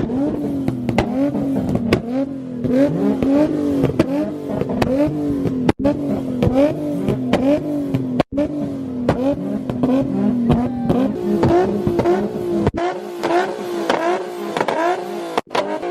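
Modified car's engine held at high revs, its pitch surging in regular pulses about twice a second with sharp exhaust pops and crackles, like an engine bouncing on a rev limiter.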